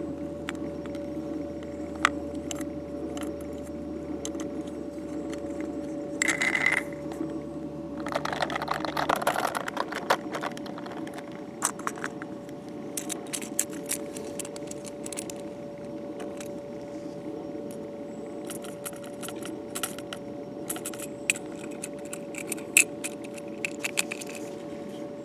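Light clicks and rattles of small metal parts, a diecast model refuse truck being handled and its parts moved, over a steady hum whose deepest part stops about a third of the way in.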